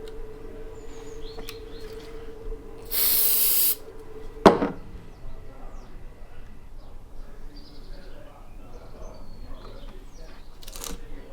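Workshop sounds: a steady hum that stops about four and a half seconds in, a short hiss just before it ends, then a single sharp knock, followed by quieter handling noises.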